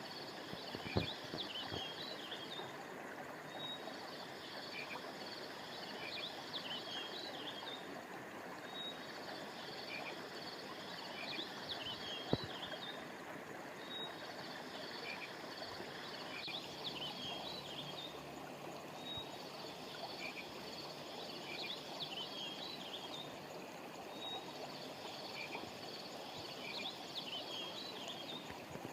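Steady rush of a flowing river or stream, with a high chirping call of several quick notes that repeats about every five seconds. Two short clicks stand out, about a second in and near the middle.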